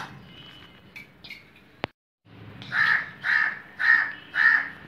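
A bird calling: a run of short, loud calls about half a second apart, starting a little after halfway through.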